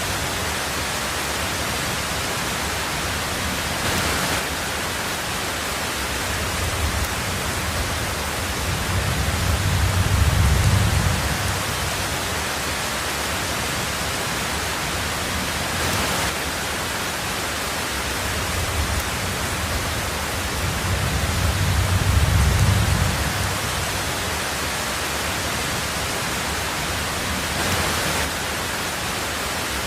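Heavy rain on a tin roof, a steady dense hiss, with two low rumbles of thunder swelling and fading, about a third and three quarters of the way through.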